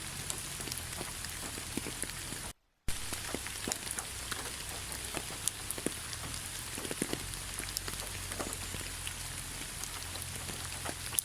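Steady rain falling, with many distinct drops ticking through the even hiss. The sound cuts out for a moment about two and a half seconds in, then carries on as before.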